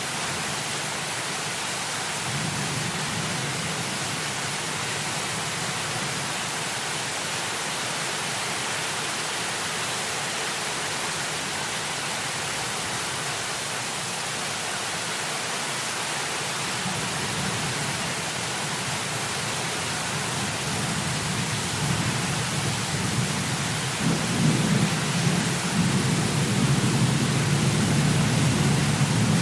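Heavy rain as a steady hiss, with thunder rumbling low underneath; the rumble grows louder over the last five seconds or so.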